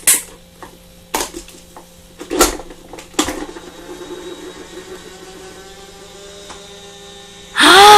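A few sharp knocks of hard objects striking something, scattered over the first three seconds, then a faint steady hum with a wavering tone. Just before the end comes a short loud pitched sound that rises and then falls.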